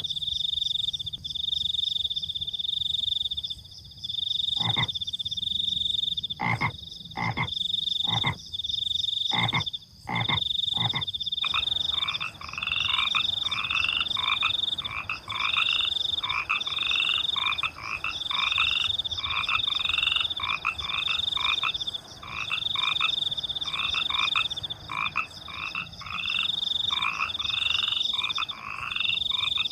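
Frogs croaking with crickets chirping in a steady high pulsing trill. Over the first several seconds the frogs give short loud croaks; from about 11 seconds in, a frog calls in a regular series of rising notes, roughly one a second.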